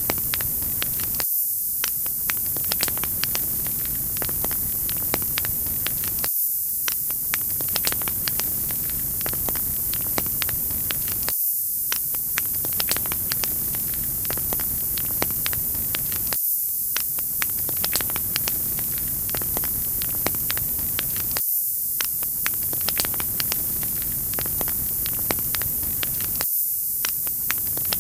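Wood fire crackling in a fireplace: a steady hiss with many small, quick pops. The same stretch loops about every five seconds.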